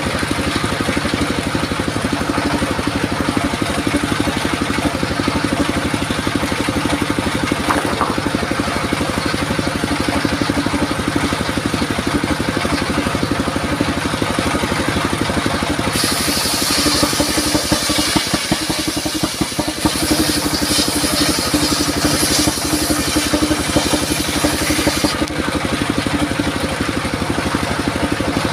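Engine-driven circular sawmill running steadily, with a brighter hissing stretch from about halfway through lasting some nine seconds as the blade cuts through durian wood.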